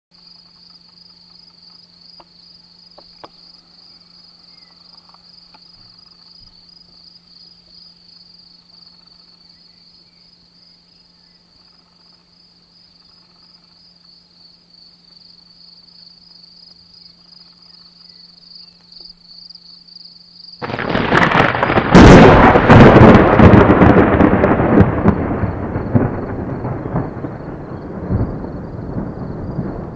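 Insects chirping steadily at a high pitch. About twenty seconds in, a sudden loud thunderclap cracks and rolls into a long rumble that slowly fades.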